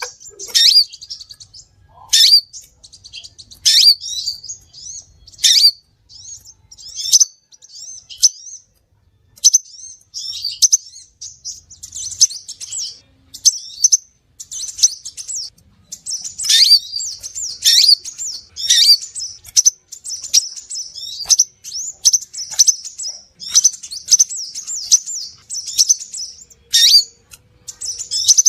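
Crimson sunbird (sepah raja) calls used as a bird-luring recording: rapid, high-pitched sharp chirps and short twittering trills, many sweeping downward, repeated over and over with brief gaps.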